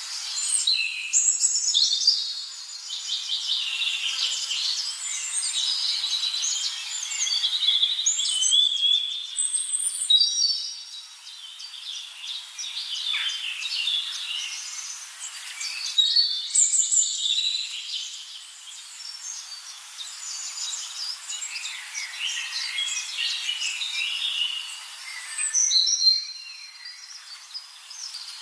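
Dense chorus of many wild birds chirping, trilling and whistling at once, the high calls overlapping with no pause.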